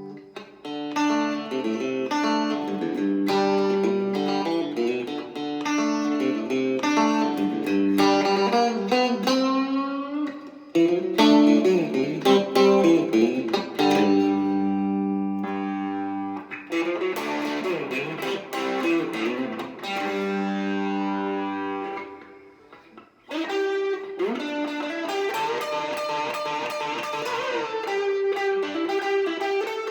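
Left-handed Squier Classic Vibe '70s Stratocaster electric guitar played through a Marshall MG30DFX amp, jamming classic rock riffs and chords. The playing drops out briefly about 22 seconds in, then picks up again.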